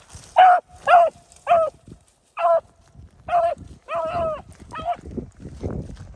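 A dog giving a series of about eight short, high-pitched yips or barks, each brief and separate, with wind rumbling on the microphone underneath.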